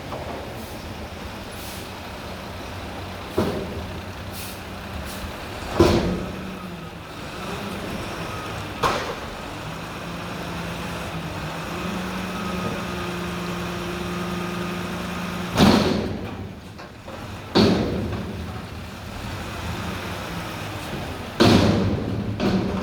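Mack McNeilus front-loader garbage truck's diesel engine running steadily, its hum louder for a few seconds about halfway through. Six loud sudden bangs or bursts come at intervals over it.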